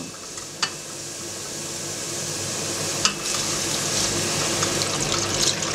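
Sliced leek and garlic sizzling in butter in a stainless steel pot while being stirred with a wooden spatula, with two light knocks about half a second and three seconds in.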